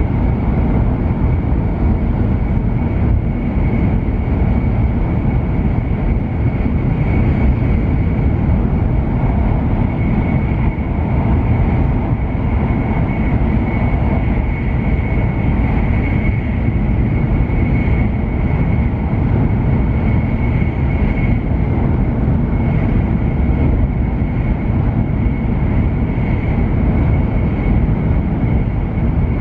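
Running noise inside the cabin of a JR West W7 series Shinkansen at speed: a steady, loud rumble with a thin, constant high whine above it.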